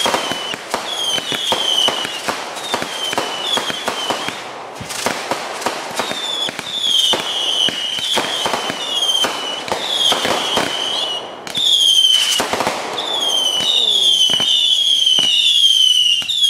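Consumer fireworks going off in a rapid volley: dense sharp cracks and bangs with a string of shrill whistles, each sliding downward in pitch, coming thicker in the second half.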